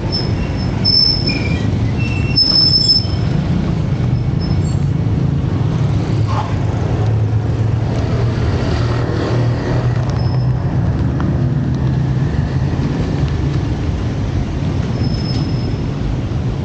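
Street traffic: vehicle engines running with a steady low rumble, and a few short high-pitched squeals in the first few seconds and again near the end.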